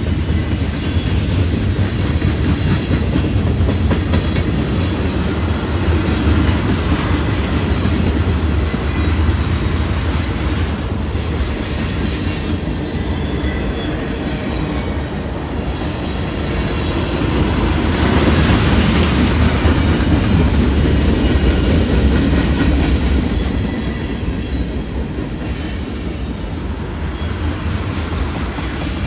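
A train's cars rolling past steadily, with wheels clicking and rumbling on the rails. The sound swells for a few seconds about two-thirds of the way through.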